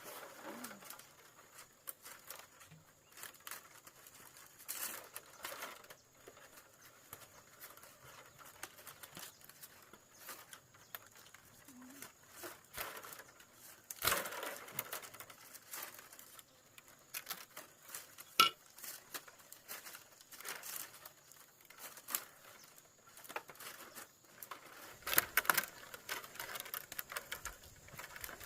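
Irregular light taps, clicks and rustling of hands working with a hard, brittle material, with a few sharper knocks around the middle and near the end.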